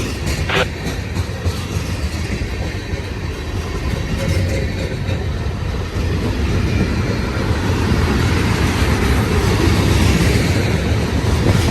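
Heavy manifest freight train rolling past on the climb: a steady low rumble of cars and wheels with some clicking near the start, getting louder from about halfway through.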